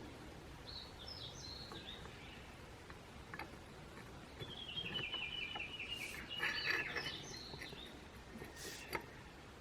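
Birds chirping in short phrases, with a few sharp clicks in between.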